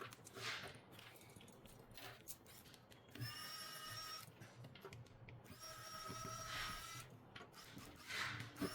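Small repair tools scraping and clicking on a phone, with two steady machine whines of about a second each, around three and six seconds in.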